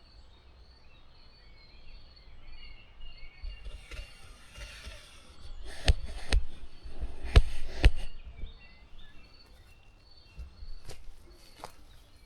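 Leafy undergrowth rustling, with four sharp twig snaps in the middle of the stretch, as branches are broken to widen a gap in the brush.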